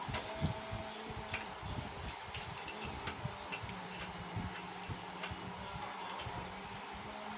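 Small metal parts and tools clicking and tapping irregularly as a motorcycle carburetor is fitted back in place, over a steady low hum.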